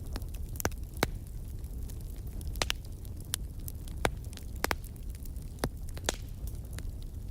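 Fireplace wood fire crackling: irregular sharp pops and snaps, several a second at times, over a steady low rumble.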